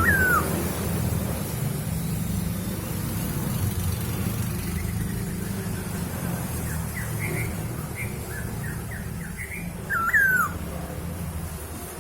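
Poksay hongkong (Chinese hwamei) singing: a loud swooping, down-slurred whistle at the start and again about ten seconds in, with a run of short, quick chirps leading up to the second one. A steady low rumble runs underneath.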